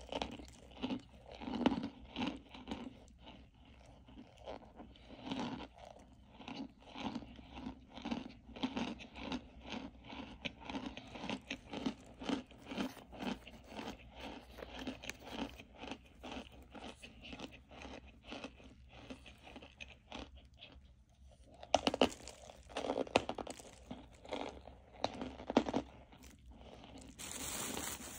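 Chewing of crunchy cornstarch chunks: a steady run of crunches about two a second, then, a little past two-thirds of the way through, a few louder, sharper bites. A brief hiss comes near the end.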